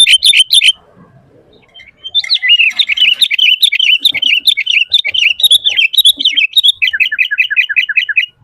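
Sooty-headed bulbul singing: a fast run of repeated chirps that stops under a second in, then after a short pause a busy, varied song of chirps, closing near the end with another quick series of repeated notes.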